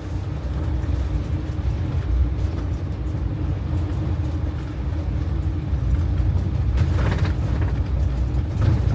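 Vehicle driving over rough ground, heard from inside: a steady low rumble of engine and tyres.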